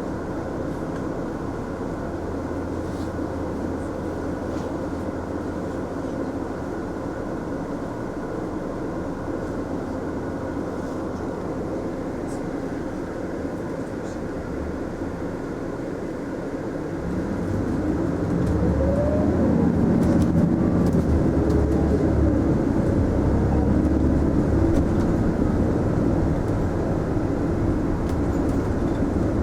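Mitsubishi Fuso Aerostar city bus heard from inside the cabin: the engine runs steadily at low revs while the bus stands or creeps. About 17 seconds in the bus pulls away, and the engine note grows louder with a whine that rises and falls as it accelerates.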